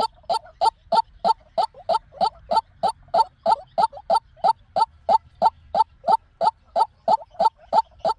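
White-breasted waterhen calling: a steady run of short, harsh notes at about three to four a second, the lure call used to trap the species.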